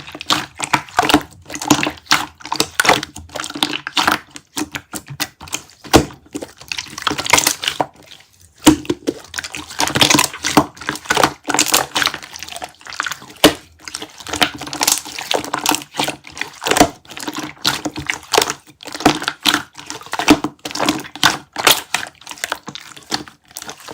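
Ice crackling and clinking, with a wet, liquid edge: dense irregular clicks and crackles that pause briefly about eight seconds in.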